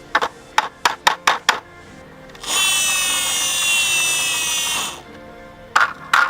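Several sharp clicks, then a small motor whirring steadily and loudly for about two and a half seconds, with more clicks near the end, over faint background music.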